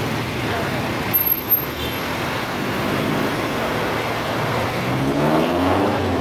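Motor vehicle engine and road traffic noise, with an engine rising in pitch as it speeds up about five seconds in.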